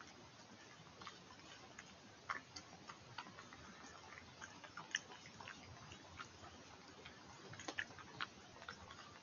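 European badger eating, its chewing making irregular small clicks and smacks, a few louder ones, over the faint steady hiss of a stream.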